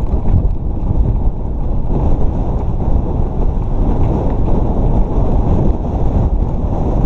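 Heavy wind rumble on the camera's microphone from riding a mountain bike downhill at speed, mixed with tyre and trail noise and faint small rattles.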